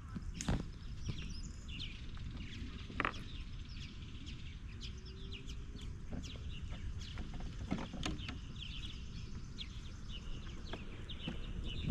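Outdoor ambience of small birds chirping repeatedly over a steady low rumble, with a few sharp knocks scattered through it.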